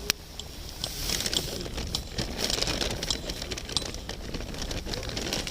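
Wood campfire crackling, with irregular small snaps and one sharper pop just after the start.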